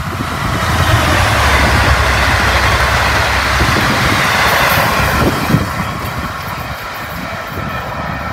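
Diesel-electric passenger train passing close by: a deep engine rumble as the V/Line locomotive goes past in the first few seconds, then the rushing noise of the carriage wheels on the rails, easing as the train draws away. One sharp click about five and a half seconds in.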